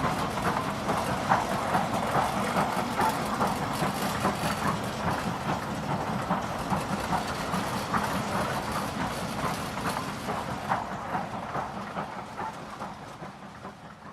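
Model goods train running along the layout's track, with rapid, irregular clicking of the wheels over the rail joints over a steady rumble. It fades away over the last few seconds as it moves off.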